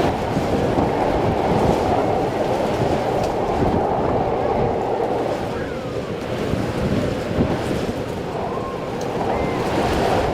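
Steady rushing outdoor noise, with a few faint voices in the background.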